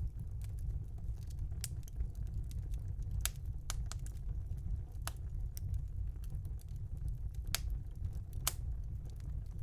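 Wood fire in a fireplace crackling: irregular sharp pops and snaps over a low steady rumble from the flames, with one louder pop near the end.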